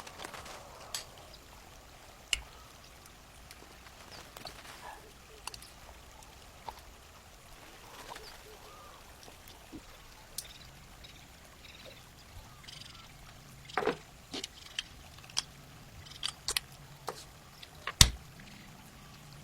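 Scattered small clicks and taps of a diecast metal model car and hand tools being handled. They come thicker in the last few seconds, with one sharper knock near the end.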